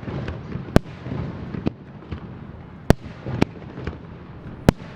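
Aerial firework shells bursting overhead: about five sharp bangs at uneven intervals over a continuous low rumble and crackle of further bursts.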